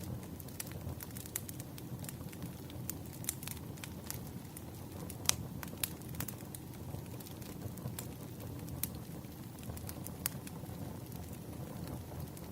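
Wood fire burning: a steady low rumble of flames with irregular sharp crackles and pops of firewood, one louder pop about five seconds in.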